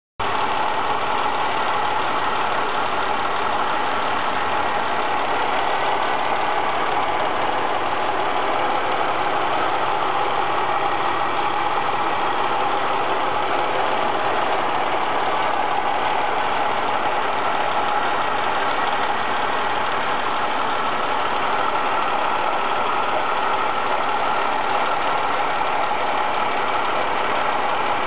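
Ford Mondeo ST220's 3.0 V6 engine idling steadily. The camshaft bearing cap rattle is gone, which the owner credits to the TSB 24/2009 repair.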